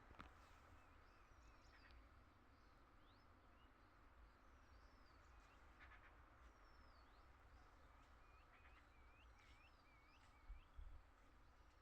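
Faint birdsong: several birds giving short chirps and whistled calls that rise and fall, over a steady low rumble, with two soft low bumps near the end.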